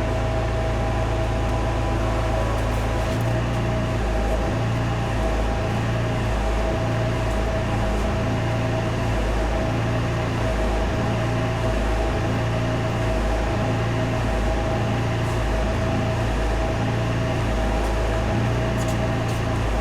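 Steady hum of a running motor with a constant whine, over a low throb that swells and fades unevenly.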